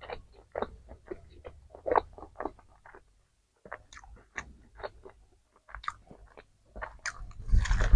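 Close-miked chewing and biting of KFC fried food: irregular wet mouth clicks and crunches, pausing briefly about three seconds in. A louder noise with a low rumble comes near the end.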